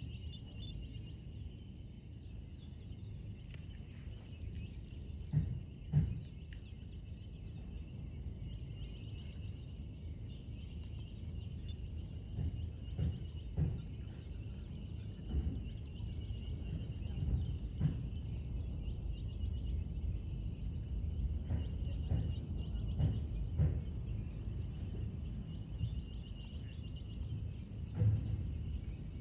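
Hawaiian honeycreepers chirping over a steady low rumble and a constant high-pitched hum, with several short low thumps scattered through.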